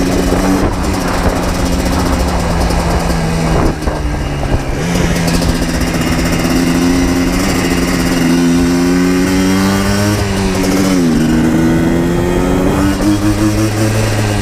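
2000 Yamaha Blaster 200's two-stroke single-cylinder engine running under way. Its pitch holds steady, dips about a third of the way in, climbs gradually, then drops sharply and climbs again near the end.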